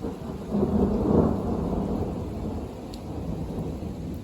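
Thunder rumbling, swelling within the first second and then slowly dying away, with rain falling steadily underneath.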